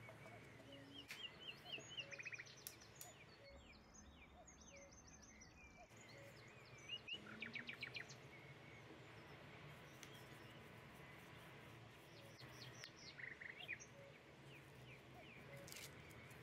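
Faint birdsong: several bursts of quick repeated chirps and trills from small birds, over a low steady background hiss.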